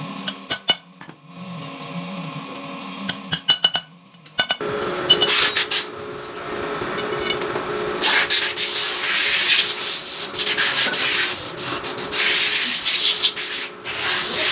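Abrasive rubbing on a metal part, a coarse steady scraping that starts about a third of the way in and grows louder and harsher about halfway. Before it come a few sharp clicks and taps.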